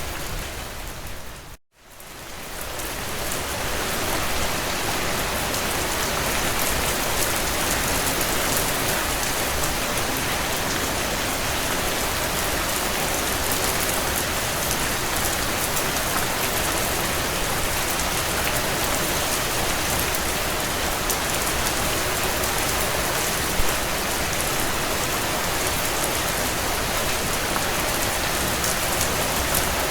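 Heavy rain drumming steadily on a tin roof, a dense even patter. About a second and a half in, the rain cuts out to silence for a moment and fades back in over a couple of seconds, like a loop joining.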